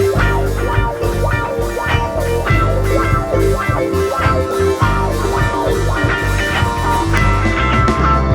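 Live rock band playing an instrumental passage: electric guitars, keyboard, bass and drum kit, with no singing.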